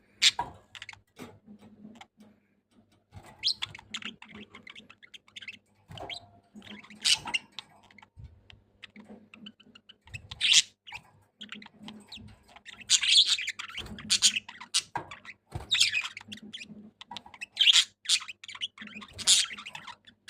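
Budgerigar chirping and chattering in short, irregular bursts of high chirps, busier in the second half.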